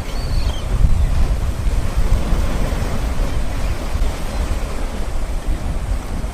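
Water fountain jets spraying, a steady rush of falling water, with wind rumbling on the microphone.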